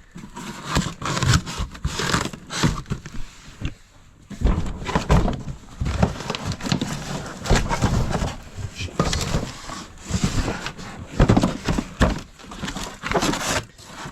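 Items being handled and shifted by hand: irregular knocks and thunks with rustling and crinkling, as of bags and plastic containers being moved.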